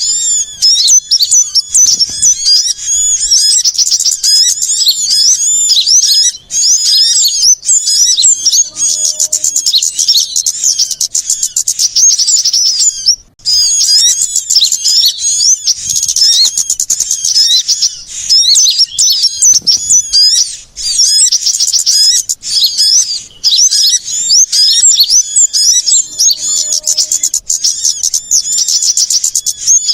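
Dense, continuous chorus of many small songbirds chirping and trilling at once, high-pitched, with a brief break about 13 seconds in. It is a bird-lure call meant to draw in wild small birds.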